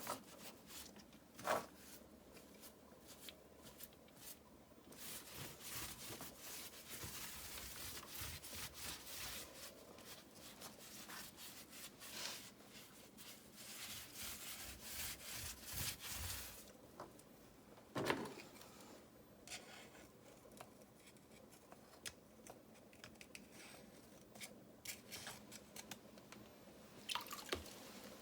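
Grout being worked and scraped in between river rocks: irregular, quiet scraping and rubbing with a few sharp clicks of tool on stone.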